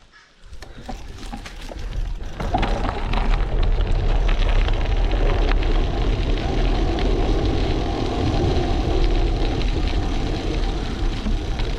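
Wind rushing over an action camera's microphone while cycling, mixed with road and tyre noise and scattered small rattles. It builds up over the first couple of seconds, then holds steady.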